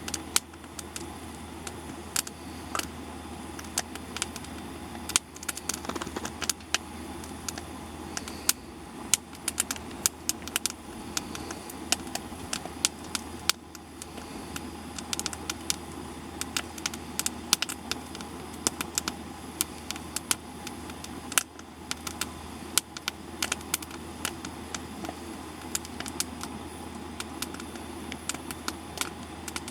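Wood campfire burning, the logs crackling with frequent sharp irregular pops over a steady low hiss of the flames.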